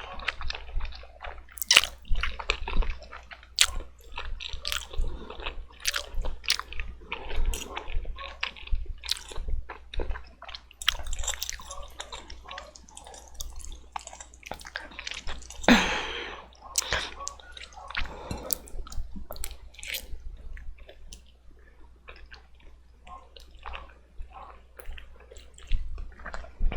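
Close-up eating sounds of black bean noodles being slurped and chewed: wet, sticky mouth sounds with many short clicks. One louder, longer sound comes about halfway through.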